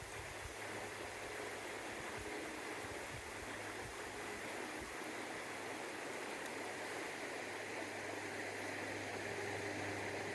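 Steady rushing of a fast-flowing stream, with a faint low steady hum underneath.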